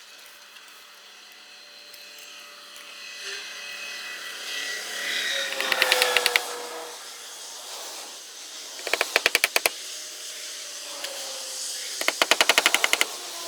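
Three short bursts of rapid, evenly spaced knocks, about fifteen a second, each lasting under a second and a few seconds apart, with faint tones between them.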